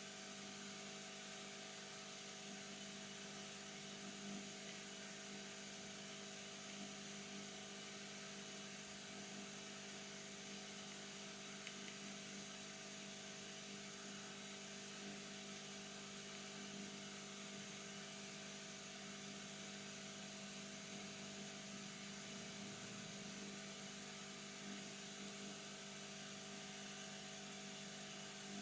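Steady electrical hum with a faint high-pitched whine, with no distinct knocks or tool strokes: room tone at an electronics repair bench.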